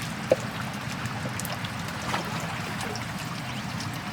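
River water trickling and splashing steadily, over a low, even engine rumble. A single sharp click about a third of a second in.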